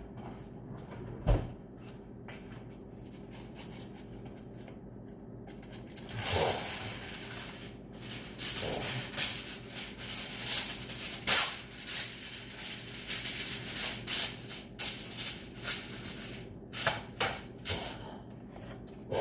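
Kitchen handling sounds during food prep: a single sharp knock, then about ten seconds of continuous rustling and small clattering, then a few separate clicks.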